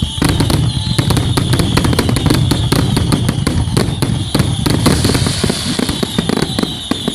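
Fireworks going off in a rapid, continuous barrage of sharp cracks and bangs, a pyrotechnic finale, with a steady high tone running underneath.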